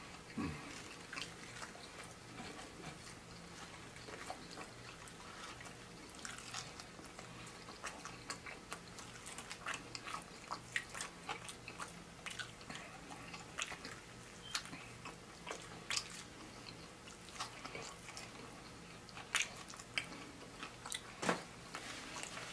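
Close-up mouth sounds of a person chewing fried chicken wings: irregular clicks and smacks as he chews and picks meat off the bone, one of the loudest near the end.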